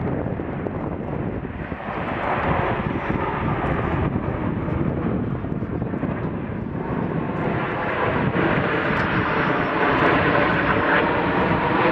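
Fixed-wing aircraft flying past, its engine noise growing louder over the last few seconds.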